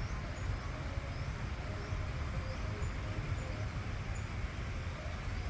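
Outdoor ambience: a steady low rumble with faint, short, high bird chirps repeating every half-second or so.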